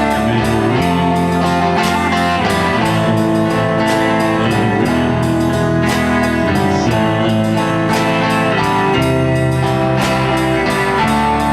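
Band music with guitar to the fore, playing an instrumental stretch between sung lines to a steady beat.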